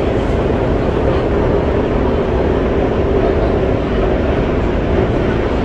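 Metro train running through a long tunnel, heard from inside the carriage: loud, steady rail and running noise with a constant hum, unchanging throughout.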